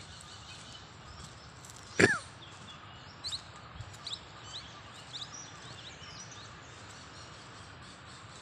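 Small birds chirping in short, quick-rising notes over steady outdoor background noise. About two seconds in there is one loud, short sound that drops sharply in pitch.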